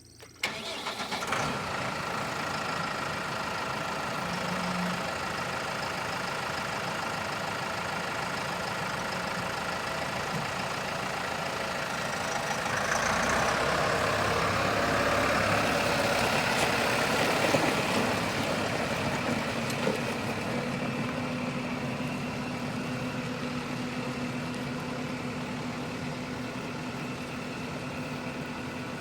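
Case IH 105C tractor's diesel engine starting with a sudden catch, then running steadily. About halfway through it runs louder for several seconds, then settles back to a steady idle.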